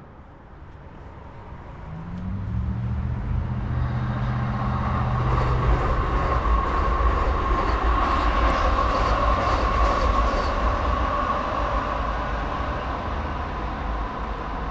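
A train passing, most likely the city's light rail. A low hum starts about two seconds in and builds into a long, steady rolling rumble that is loudest in the middle.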